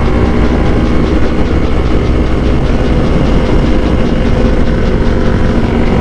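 Several Yamaha R3 parallel-twin motorcycles with open aftermarket exhausts running together at riding speed, loud and steady.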